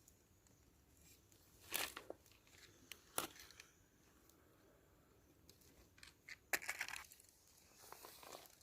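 Faint, scattered rustling and crackling with a few sharp clicks, like things being handled. The loudest bursts come about two and three seconds in, with a denser crackly stretch about two-thirds of the way through.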